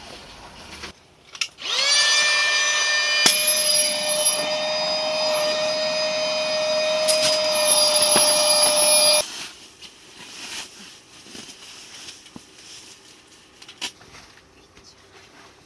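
A small electric motor whirring: it spins up with a rising whine about two seconds in, runs steadily for about seven seconds, then cuts off suddenly.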